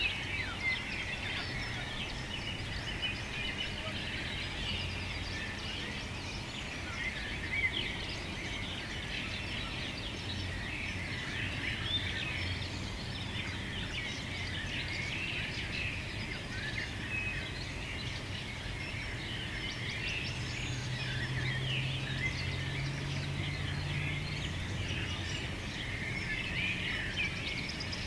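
Many small birds chirping together in a dense, continuous chorus of short high calls, over a steady low hum; a low drone joins in for a few seconds about two-thirds of the way through.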